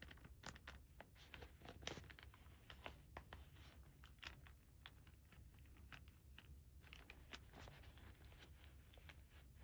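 Faint clicks and light rustling of small plastic toy pieces and packaging being handled, with a few sharper ticks in the first two seconds, then softer scattered taps.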